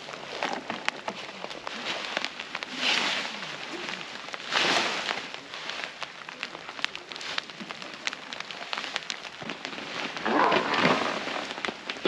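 Steady rain falling, with many sharp ticks of drops hitting a nearby surface. A few louder swells of noise rise about 3, 4.5 and 10.5 seconds in.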